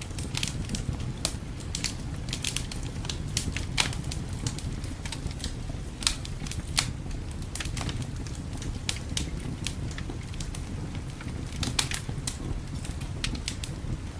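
Wood fire crackling and popping in a fireplace: irregular sharp pops and snaps over a steady low rumble of the burning fire, with a few louder pops scattered through.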